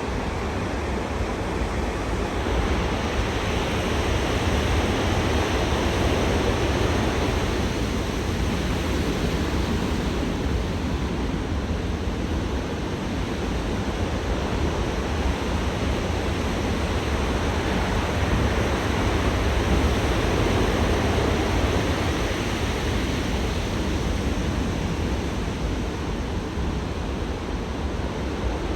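Heavy ocean surf from a large typhoon ground swell breaking on the shore: a continuous wash of water that grows louder around five seconds in and again around twenty seconds in.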